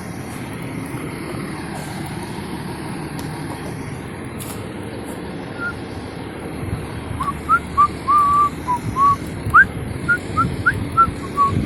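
A person whistling a short tune in quick, clear notes, starting about seven seconds in, over a steady low background rumble.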